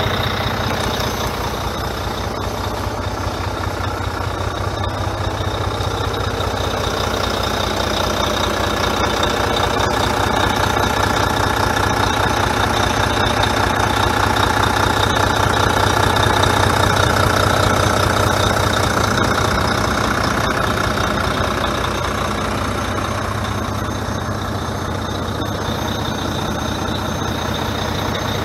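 Diesel engine of a 2015 Volvo conventional-cab road tractor idling steadily, a little louder through the middle.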